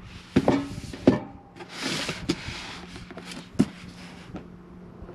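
Gear being handled: three sharp knocks, with a rubbing, rustling slide between them, over a faint steady hum.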